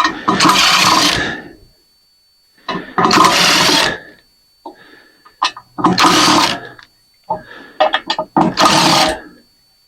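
Cordless drill/driver running in four short bursts of about a second each, backing screws out of a ceiling fan's metal housing, with small clicks and knocks of handling between the bursts.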